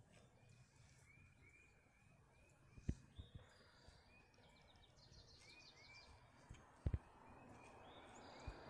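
Faint birdsong: a small bird repeating short chirping notes in quick runs, with other higher chirps. Two brief low thumps come about three and seven seconds in.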